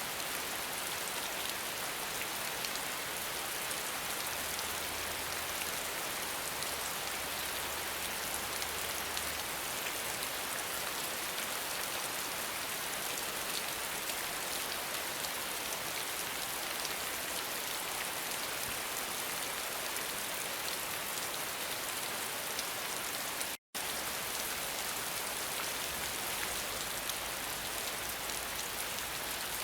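Steady rain falling, a dense hiss with a fine patter of drops. The sound cuts out completely for a split second about two-thirds of the way through.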